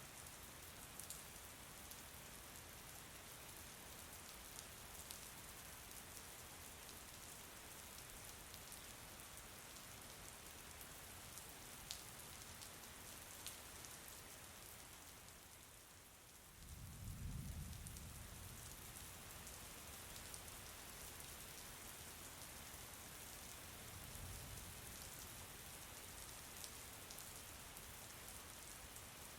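Faint, steady rain with occasional distinct drops. A brief low rumble comes just past halfway through, and a fainter one a few seconds later.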